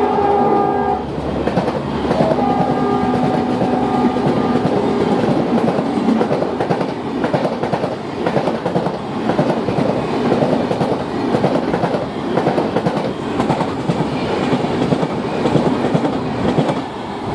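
WDP-4D diesel locomotive's horn sounding as the train passes, fading out over the first few seconds, then the passenger coaches rushing by with steady, rapid wheel clatter over the rail joints.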